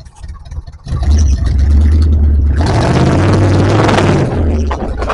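Off-road 4x4's engine suddenly revved hard under load about a second in, held loud and working; from about halfway through, a loud rushing noise is added on top of the engine.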